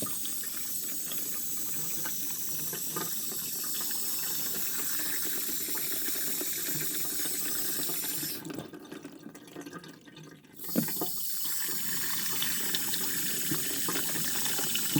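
Water running steadily through a miniature wash-down toilet. About eight seconds in, the flow drops away for two seconds, then a sharp knock, and the water runs again.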